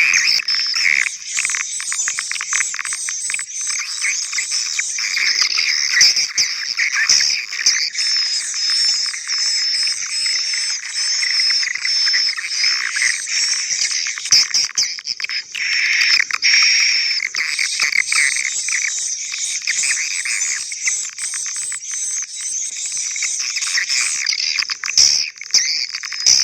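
Playback of a mixed swiftlet lure recording: the call sound and the roosting sound of edible-nest swiftlets layered into one track. The result is a dense, unbroken high-pitched twittering of rapid chirps with no low end, the call sound turned down under the roosting sound.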